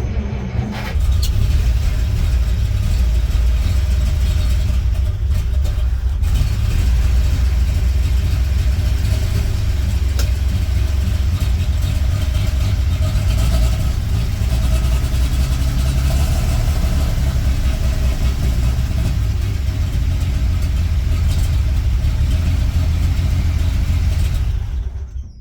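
1938 International Harvester D-2 truck engine starting and catching right away, then running steadily for about twenty-five seconds before dying near the end. This stall after a short run is the fault being chased; the owner has already put in fresh fuel and suspects the carburetor.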